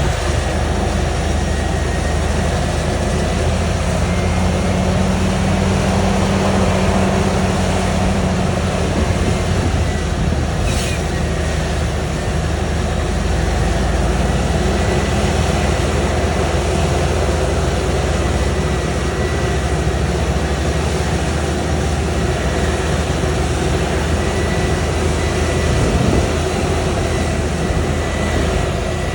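Heavy diesel harvest machinery running steadily while chopping corn silage, with a thin, steady high whine over the low engine rumble.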